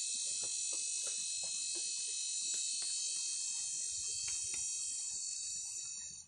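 Insect buzzing steadily at a high pitch, cutting off suddenly near the end, with faint scattered clicks underneath.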